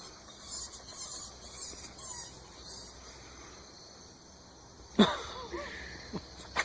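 A small young animal squeaking faintly several times, then giving a louder, short cry about five seconds in, followed by a couple of small chirps.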